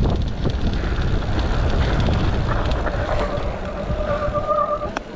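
Mountain bike rolling downhill, with wind buffeting the microphone and tyre noise on the dirt. About halfway in, a steady high squeal starts and holds until near the end as the brakes are applied on the wet trail.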